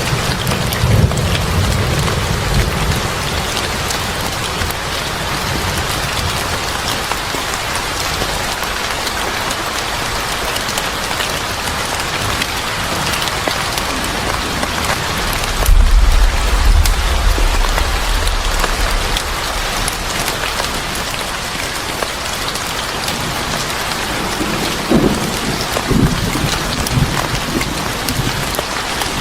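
Steady heavy rain falling, with low rumbles of thunder near the start and again about halfway through.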